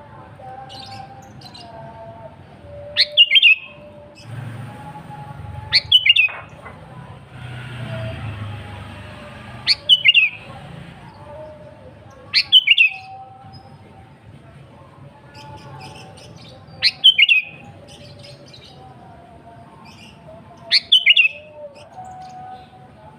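Sooty-headed bulbul (kutilang) singing: six short, loud bursts of quick, bubbly notes, one every three to four seconds. Fainter, lower whistled bird notes carry on in the background.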